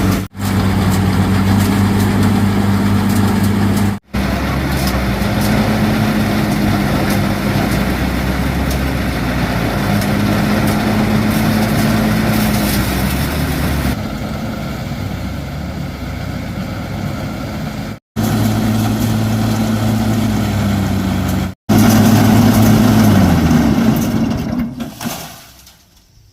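An engine running steadily at an even speed, its hum shifting slightly in pitch between edited shots and breaking off suddenly four times for a split second. It fades away near the end.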